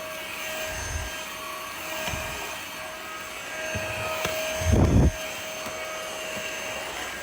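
Cordless stick vacuum running with a steady motor whine, with a few low thumps, the loudest about five seconds in.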